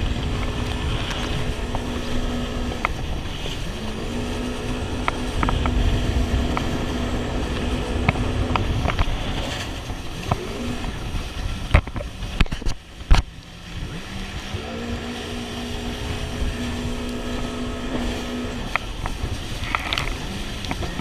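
Jet ski engine running under way, its pitch climbing back up twice after easing off, over a rush of wind and water. A few sharp knocks come in the middle.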